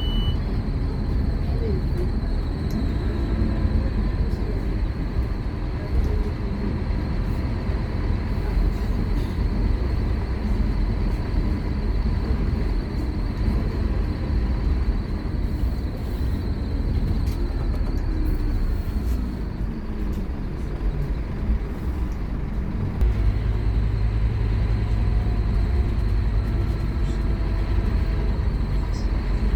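Scania K230UB Omnilink single-decker bus running on the road, heard from on board: a continuous deep engine and drivetrain rumble with road noise. About two-thirds of the way in, a stronger, deeper engine note sets in as the bus pulls harder.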